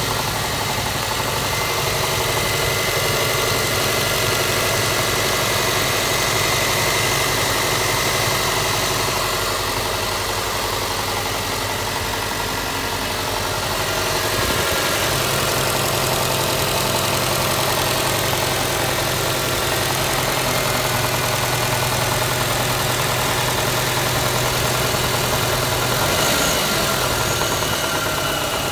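Car engine idling with a knocking ('тук-тук-тук') and shaking a little. The knock comes from somewhere in the engine and is the owner's reason for considering an engine swap. The low idle note shifts slightly about halfway through.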